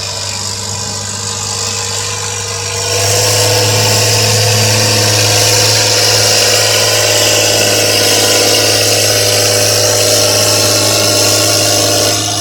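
Modified pulling tractor's engine running hard under load. It steps up sharply in loudness about three seconds in, holds a steady full-throttle note, and drops back near the end.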